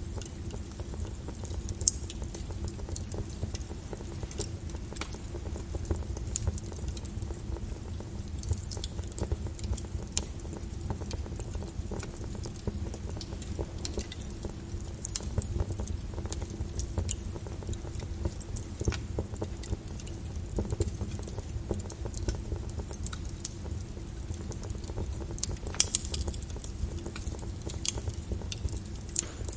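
Wood fire crackling in a fireplace: irregular sharp pops and snaps over a low, steady rumble, with a louder pop about two seconds in and another near the end.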